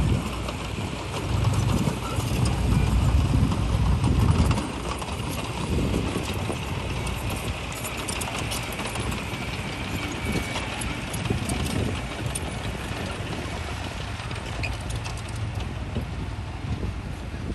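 Bulldozer's diesel engine running with the clanking of its crawler tracks. The low engine rumble is louder for the first four and a half seconds, then eases to a steadier level.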